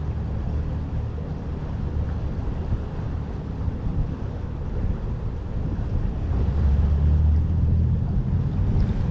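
Wind buffeting the microphone: a low, steady rumble that grows stronger about two-thirds of the way through.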